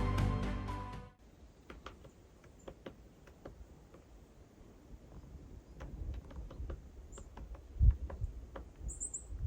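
Background music fading out about a second in, followed by faint outdoor quiet broken by scattered small clicks, a couple of brief high chirps and a single low thump near the end.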